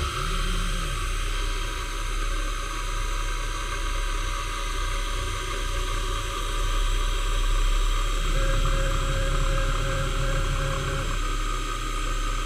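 Metalworking machine tool running steadily, with a low hum and a hiss. A higher tone joins about two-thirds of the way through and stops a few seconds later.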